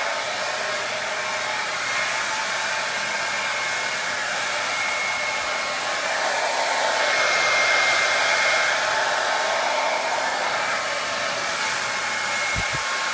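SweetLF 1875W ionic hair dryer blowing steadily: a rushing stream of air with a thin, steady high whine from its motor, growing a little louder for a few seconds midway.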